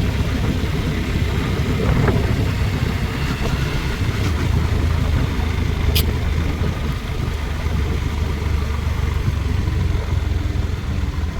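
Steady low rumble of a vehicle's engine and road noise while driving, with one sharp click about six seconds in.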